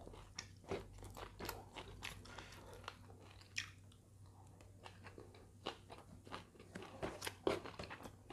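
Close-up eating sounds: a mouthful of rice with sambal and stir-fried greens, eaten by hand, being chewed with crunches, wet clicks and lip smacks scattered throughout. A faint steady low hum runs underneath.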